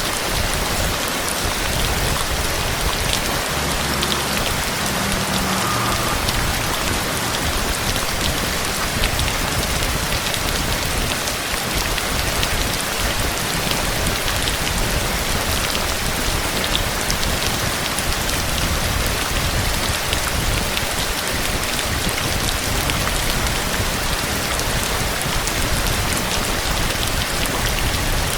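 Steady heavy rain falling on a surface, a dense even hiss scattered with fine drop ticks.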